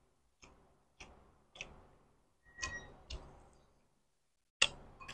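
Quiet eating sounds: soft, irregular mouth clicks of someone chewing food with the mouth closed, about one every half second to a second, with a still gap of about a second near the end.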